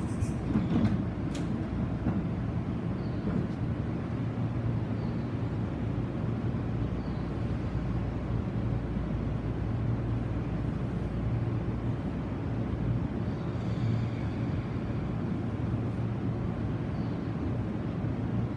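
Steady low hum of a Tobu 50070-series electric train standing at the platform with its doors open, its underfloor auxiliary equipment and air conditioning running. A few sharp clicks sound about a second in.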